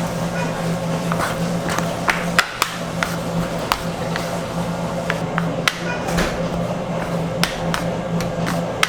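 Irregular sharp knocks and taps of bakery work, a dozen or so scattered through, over a steady machine hum.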